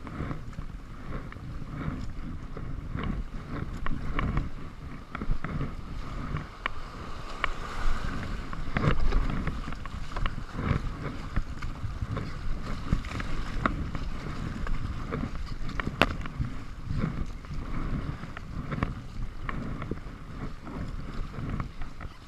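Kayak being paddled: water splashing and knocking against the paddle and hull in irregular strokes, over a steady rumble of wind on the microphone.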